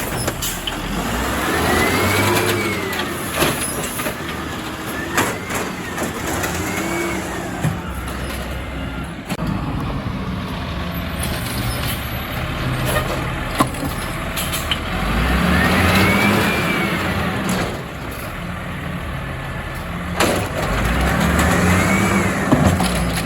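Diesel refuse truck's engine revving up and falling back about three times, a whine rising and falling with each rev, with scattered clanks and clicks between.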